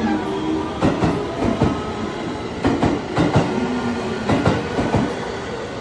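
JR West 223 series electric train pulling out of the station. Its wheels clatter over the rail joints in repeated pairs of sharp clicks over a steady rolling rumble.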